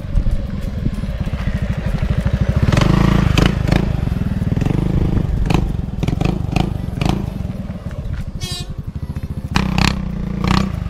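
Motorcycle engine running while riding, with a steady low pulsing that grows louder about three seconds in, and scattered knocks and rattles.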